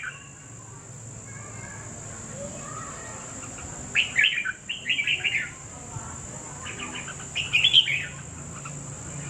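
A bird chirping in two short bursts of quick notes, about four and seven seconds in, over a steady high-pitched hiss.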